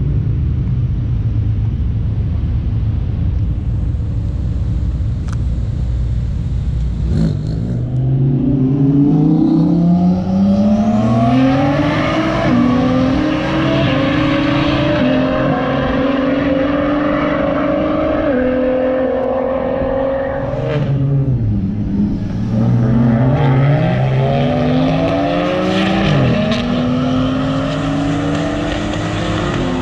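Low engine rumble of cars idling, then, after a cut, cars accelerating hard at wide-open throttle in a roll race, the engine pitch climbing and dropping back at gear shifts twice in the second half.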